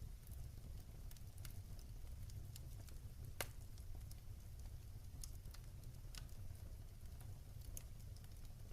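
Wood fire crackling in a fireplace: scattered small pops and snaps over a low steady rumble, with one louder pop about three and a half seconds in.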